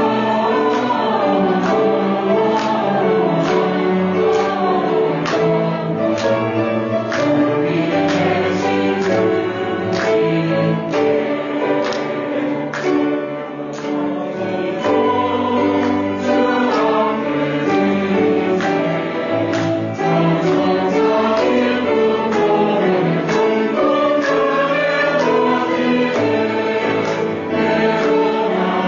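Church choir singing a Christmas hymn in parts with instrumental accompaniment, a steady beat running under the voices.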